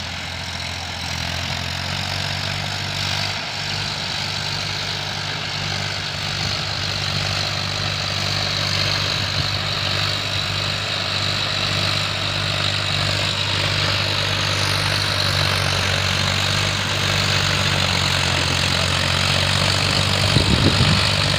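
Massey Ferguson tractor engine running steadily, a low even tone under a broad mechanical hum that grows slightly louder over the stretch, with a brief louder bump near the end.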